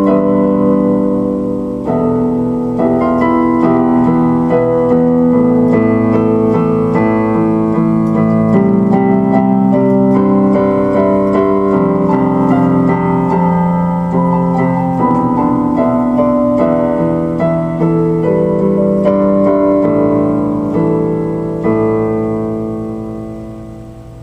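Piano-like electric keyboard music playing held chords, fading out near the end.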